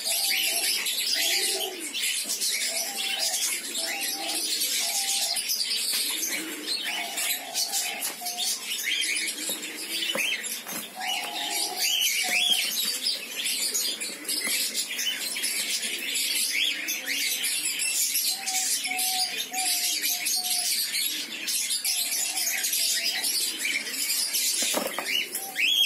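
A flock of cockatiels chattering and chirping, many short calls overlapping without a break. A lower note repeats in runs beneath the chirps in the first few seconds and again in the second half.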